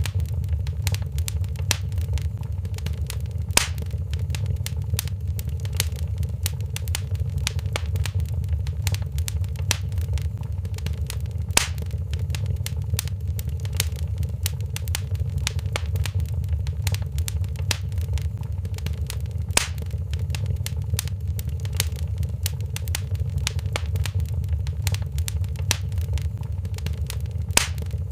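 Wood fire in a fireplace crackling: dense small snaps and pops over a steady low rumble, with a few louder pops about eight seconds apart.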